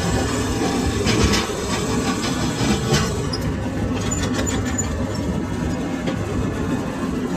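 Lathe running in a metal workshop: a steady mechanical rumble with intermittent scraping crackles and a brief high squeal about four seconds in.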